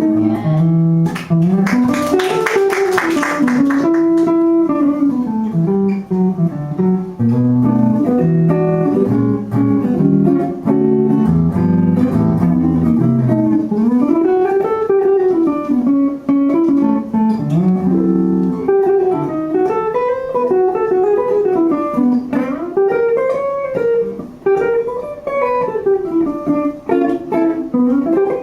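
Guitar playing an instrumental solo in a jazz standard, with single-note runs rising and falling over a low accompaniment and no singing.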